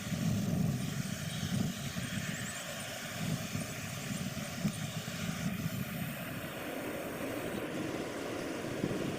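Low, uneven rumble of a distant jet airliner, with a steady hiss of background noise.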